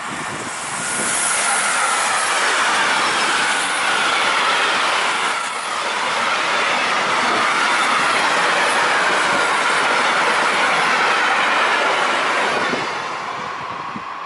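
Freight train wagons rolling past: a steady rush of wheel-on-rail noise with a wavering wheel squeal. It swells about a second in and dies away near the end as the last wagons go by.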